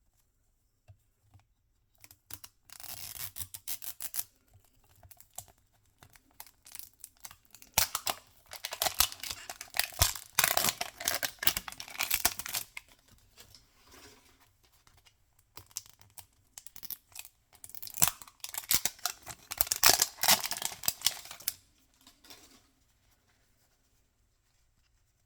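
Toy packaging being torn open and crinkled by hand, in three spells of crackling a few seconds each.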